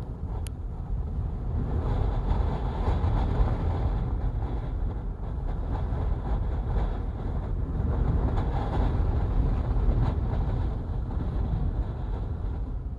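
Gale-force wind gusting against a parked camper van: a continuous low rumble that rises and falls.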